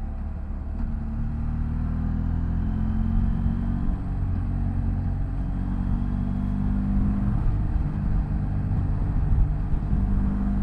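BMW F800GS motorcycle's parallel-twin engine running steadily as a low rumble, its pitch shifting slightly a couple of times.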